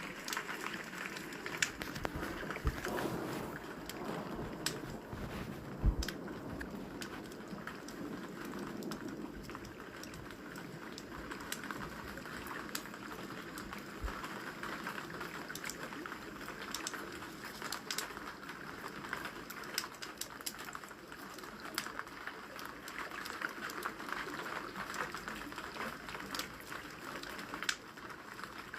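Rain falling steadily with a wood fire crackling: an even hiss of rain over frequent sharp crackles and pops from the burning logs, a few louder pops in the first six seconds.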